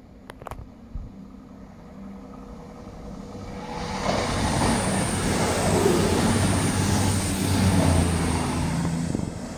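CrossCountry Class 221 Super Voyager diesel-electric multiple unit running through the station at speed. Its wheel and rail noise and diesel engine hum build from about three seconds in and are loudest for about five seconds as it passes, then ease off near the end.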